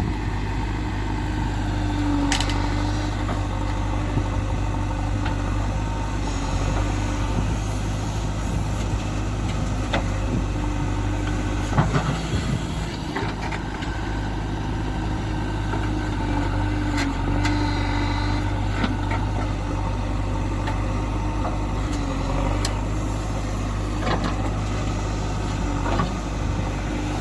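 JCB 3DX backhoe loader's diesel engine running steadily, with a wavering whine above the drone and a few sharp knocks along the way.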